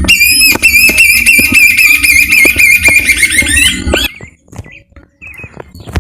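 A bird singing loudly: a fast run of repeated high rising notes over a steady whistled tone for about four seconds, stopping abruptly, followed by fainter scattered chirps.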